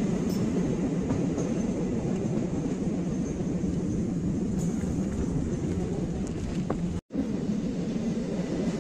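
Steady rumble of an Indian Railways LHB passenger coach running along the track, heard from inside the coach. The sound cuts out for a split second about seven seconds in.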